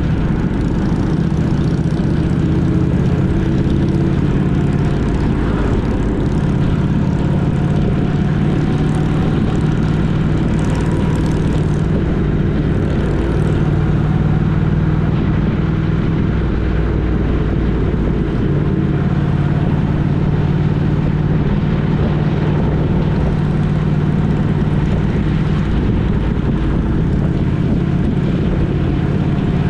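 Steady drone of a vehicle engine underway: a low hum that holds one pitch under a constant rush of noise.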